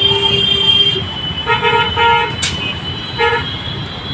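Vehicle horns honking over a steady rumble of street traffic: one long honk at the start, then a run of short toots about a second and a half in and another near the end, with a single sharp click in between.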